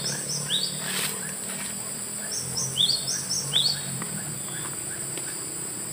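Birds chirping: short, high calls repeated in quick clusters of two or three, over a steady high-pitched insect drone. One faint click about a second in.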